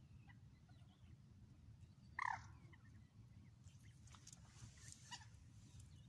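A bird gives one loud, short squawk a little over two seconds in, followed by a few fainter, shorter calls, over a faint low rumble.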